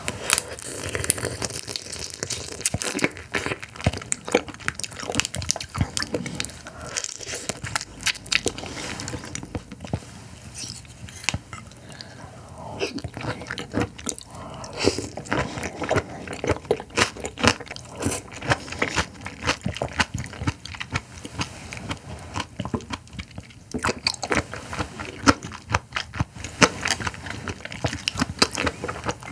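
Close-miked eating sounds: wet chewing and biting of raw carabinero shrimp, then of a raw oyster, as a dense run of short, irregular clicks and smacks.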